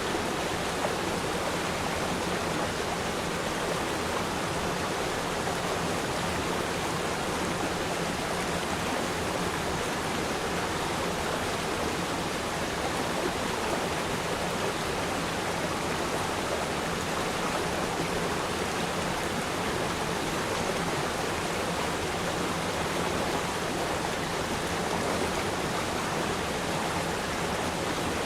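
A river stream flowing over rocks: a steady, even rush of running water.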